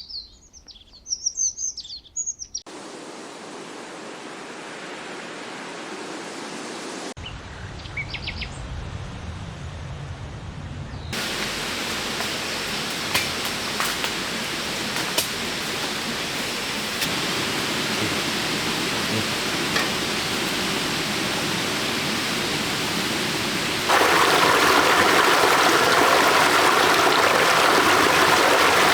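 Birds chirping briefly, then a steady rushing of running water that gets louder in abrupt steps, with a few faint clicks along the way.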